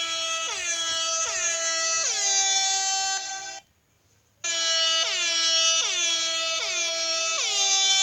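An air-horn sound effect played from a phone soundboard app. A held horn tone carries quick blasts that drop in pitch, about two a second, cut off briefly about three and a half seconds in and then start again.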